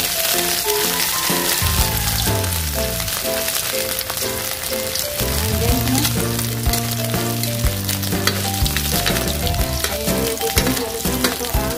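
Food frying in hot oil in a pan: a steady sizzle with many small pops. Background music with a bass line plays over it.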